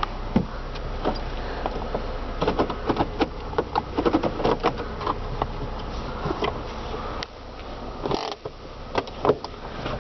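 2006 Saturn ION's engine idling, heard as a steady low hum inside the cabin, with many scattered clicks and knocks of interior controls and handling.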